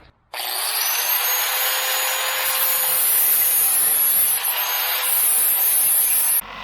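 A power tool working steel: a steady high whine over a grinding hiss. It starts abruptly a moment in, its pitch rising briefly as it spins up, and stops abruptly just before the end.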